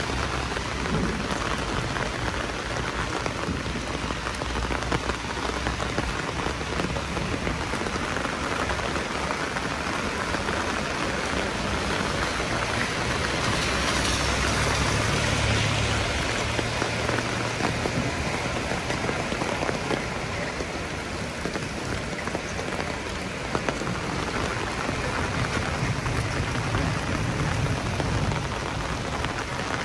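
Heavy rain falling steadily, a dense, even hiss that swells slightly about halfway through. A faint low hum comes and goes underneath.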